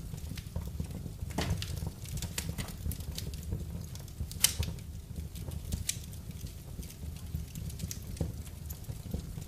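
Wood fire burning in a fireplace: irregular sharp crackles and pops over a steady low rumble of the flames, with one louder crack about four and a half seconds in.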